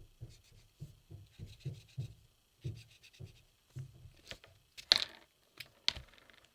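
Quick, repeated scribbling strokes of a pen on paper, about two to three a second, as a design is coloured in, with a couple of sharper clicks near the end.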